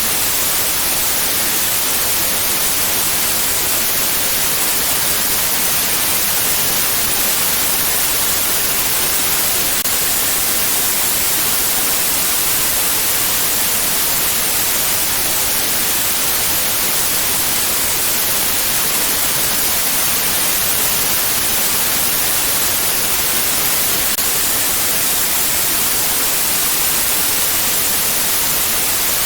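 Steady white noise: an even, unchanging hiss, brightest in the high frequencies, with no rhythm or change.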